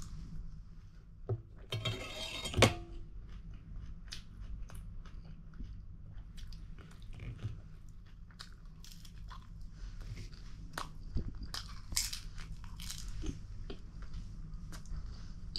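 A person eating close to the microphone: chewing and biting, with many small sharp mouth clicks. A brief louder clatter about two seconds in.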